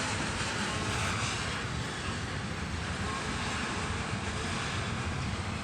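Loaded coal train rolling past, its hopper cars' wheels running on the rails in a steady rumble as the train picks up a little speed.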